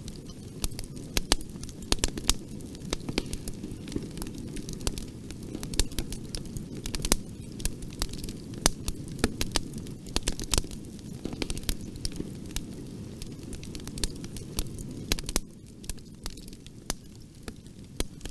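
Fire in a fireplace crackling, with frequent sharp pops and snaps over a low steady noise from the flames; about three quarters of the way through the low noise drops and the fire goes a little quieter.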